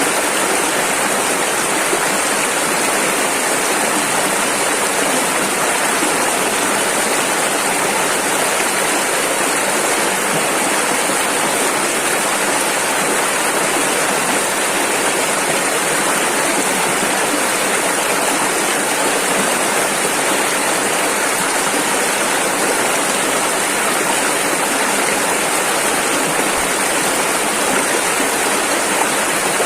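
Rushing river water, a steady, unbroken rush of noise with no change.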